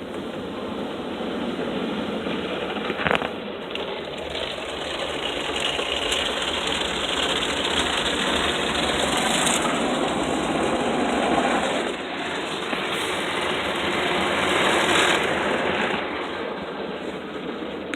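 PDQ ProTouch automatic car wash running, a steady rushing noise of spray and machinery that swells and fades as the wash moves over the car. A sharp click comes about three seconds in.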